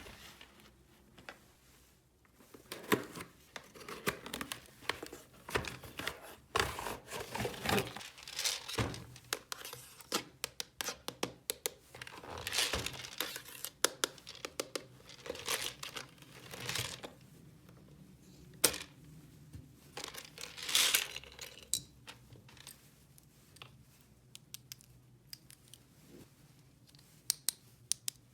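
Close handling noises: irregular crinkling and tearing rustles with scattered sharp clicks, like paper or packaging being worked by hand.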